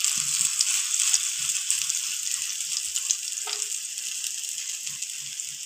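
Grated potato and egg batter frying in hot oil in a non-stick pan, a steady sizzle with fine crackling as it is pressed out flat by hand.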